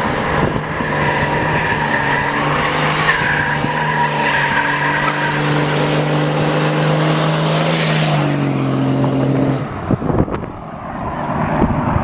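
Truck engine held at steady high revs with tires squealing, as in a burnout. The engine pitch steps down about eight seconds in and the sound stops near the ten-second mark.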